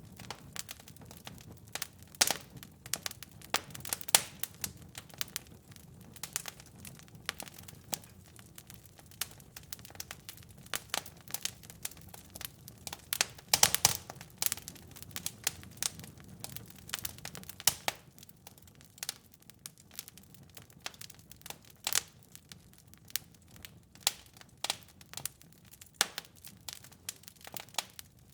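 Wood fire in a fireplace crackling and popping: irregular sharp snaps over a low hiss, with a brief cluster of louder pops about halfway through.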